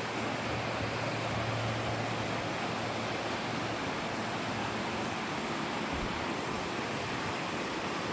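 Stream water flowing and splashing steadily, an even rushing sound.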